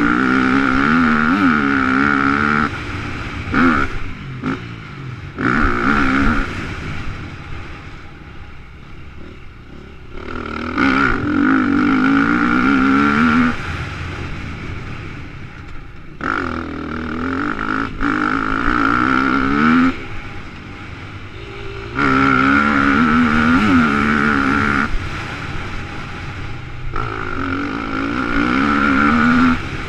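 Motocross dirt bike engine at full throttle in repeated bursts of a few seconds, the pitch wavering as it revs, dropping away between bursts as the rider rolls off for corners and jumps.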